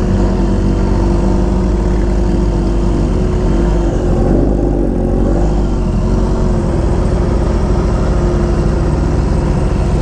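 Vehicle engines running steadily at low speed, a motorcycle among cars, with the pitch wavering briefly about halfway through.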